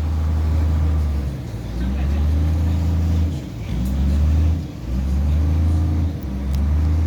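Ferry engine running with a steady drone and a strong low rumble that dips briefly a few times.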